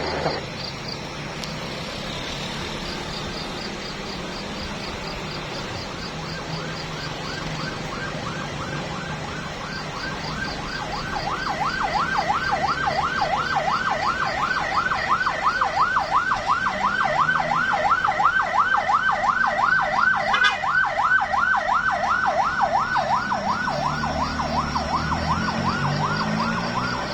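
A siren in fast yelp, sweeping up and down about four to five times a second. It is faint at first and grows loud from about ten seconds in, over the steady noise of a vehicle on the road.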